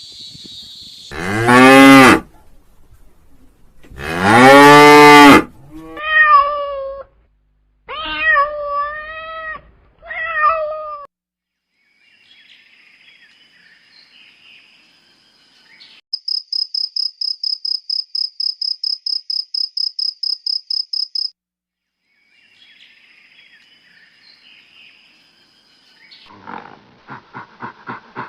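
Two long, loud cow moos, then three shorter cat meows. After that come about five seconds of a rapid, high-pitched pulsing tone, about eight pulses a second, and near the end a fast rhythmic panting starts.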